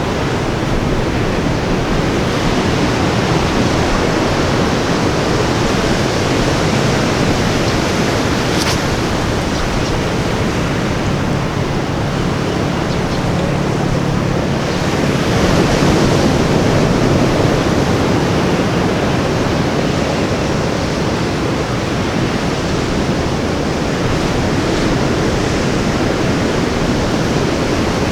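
Ocean surf breaking and washing on a tropical beach, a continuous rushing that swells louder about halfway through.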